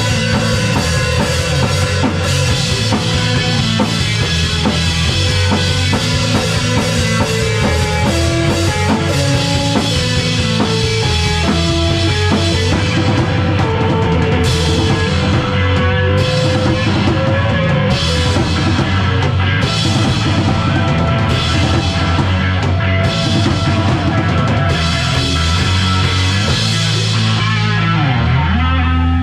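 Live rock band playing loud with a full drum kit and a heavy bass end, no singing.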